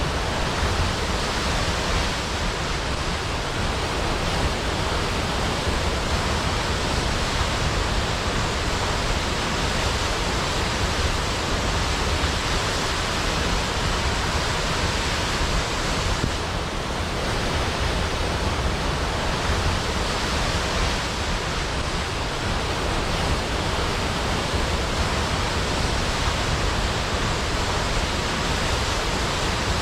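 Large waterfall: water falling steadily down a high cliff into a pool, an even, unbroken rush with a deep low rumble.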